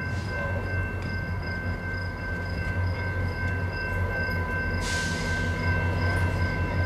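Distant VIA Rail F40PH-3 diesel locomotive approaching with its train: a steady low rumble, with several steady high-pitched tones above it. A hiss comes in about five seconds in.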